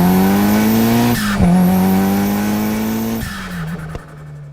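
A car engine accelerating hard, its pitch climbing, dropping with a gear change about a second in and climbing again through the next gear. About three seconds in the revving stops and a lower steady note fades away.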